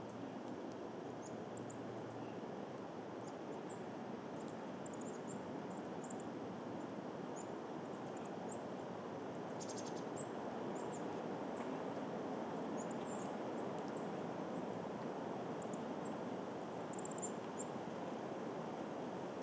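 Steady wind rushing, a little stronger in the second half, with many short, high bird chirps scattered throughout and a quick run of high notes about ten seconds in.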